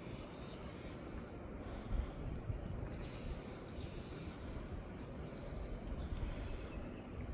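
Cat purring contentedly while eating: a low, steady rumble.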